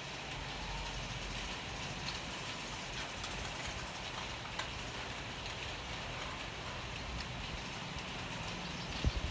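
Steady rain falling, an even hiss with scattered faint drop ticks, over a low steady rumble.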